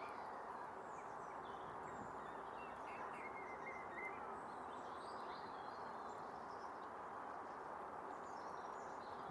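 Scattered small-bird calls and chirps, with one short run of calls about three seconds in, over a steady outdoor background hiss.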